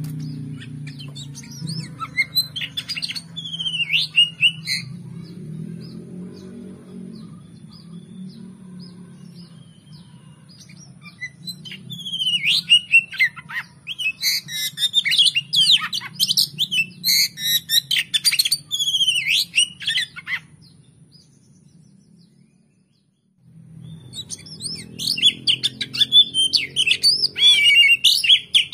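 Oriental magpie-robin (kacer) song: bursts of varied whistles and fast chattering, sliding notes, separated by pauses. A soft, steady musical backing runs underneath and drops out briefly a little after the middle.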